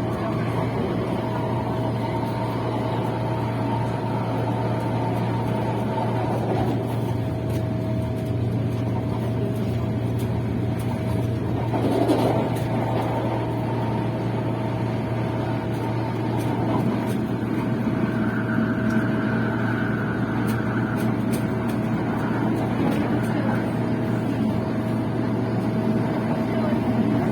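Passenger train running, a steady rumble with a constant hum and a steady whine, a brief louder swell about halfway through and a higher whine joining for a few seconds later on.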